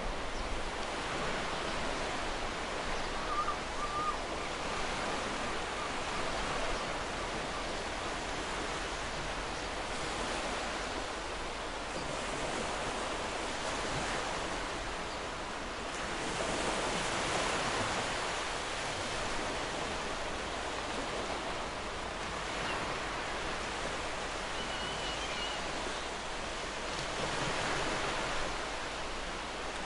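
Ocean waves washing in and breaking in a steady wash, swelling louder every several seconds as each wave comes in.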